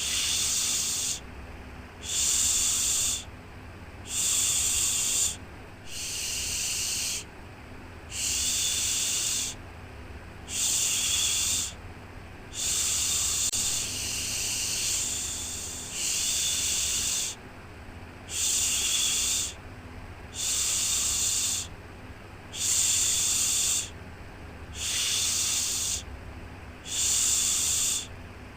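A 'shhh' shushing sound for soothing a baby to sleep: one long hiss about every two seconds, with short gaps between, over a faint steady low hum.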